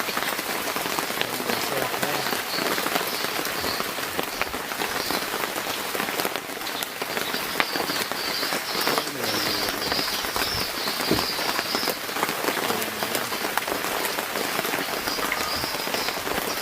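Heavy tropical rain pouring down, with dense close drop hits pattering on nearby surfaces over a steady hiss.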